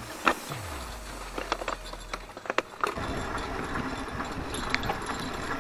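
Mountain bike rolling over a rough forest trail: steady tyre noise with scattered knocks and rattles from the bike.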